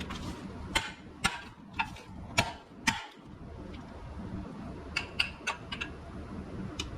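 Hammer beating on a twisted metal ATV bumper to straighten it: five hard blows about half a second apart, then a quicker run of lighter strikes about five seconds in and one more near the end.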